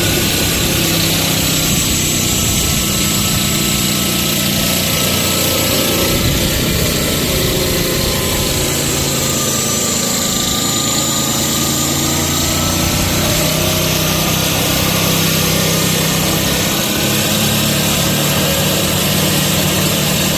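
Electric concrete cutting saw with a 260 mm diamond blade running steadily under load, a loud, even machine noise with a low hum.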